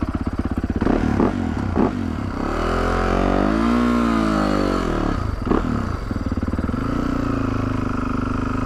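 Yamaha YZ450F single-cylinder four-stroke dirt bike engine running. About three seconds in it revs up and back down, then it settles into steady running. There are a few short knocks along the way.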